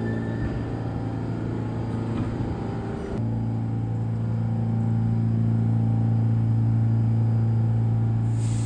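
New York City subway train at a station platform: a steady electrical hum over a low rumble. The sound changes abruptly about three seconds in, then the hum holds steadier and stronger, and a hiss comes in near the end.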